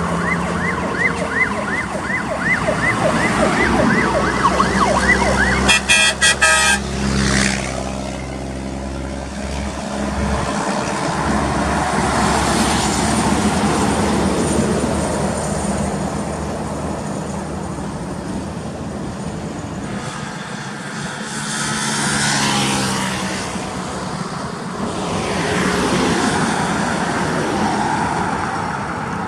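Truck engines running with a fast warbling siren-like horn, about three sweeps a second, that stops about five seconds in. A brief stuttering burst of blasts follows, then engine noise with two swells as vehicles pass near the end.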